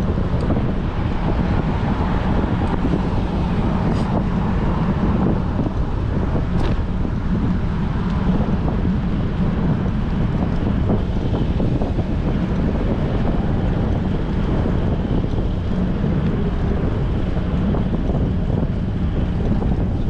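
Strong wind buffeting a GoPro's microphone while cycling: a steady, dense low rumble, with a couple of faint clicks.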